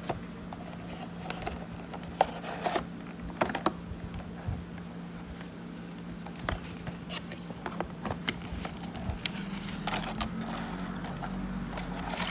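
Irregular light clicks, taps and rustles of a toy truck's box and packaging being handled and opened, over a low steady hum.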